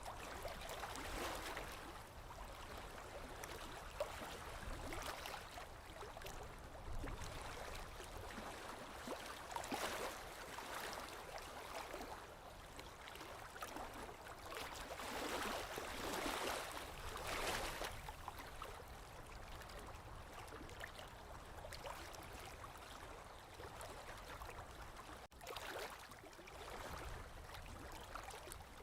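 Small lake waves lapping on the shore, a steady wash of water with soft irregular swells every second or two.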